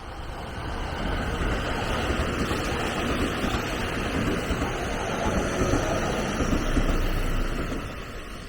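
A train passing by on the line: the rolling noise of wheels on rail builds about a second in, stays loud, peaks near the end and then starts to fade.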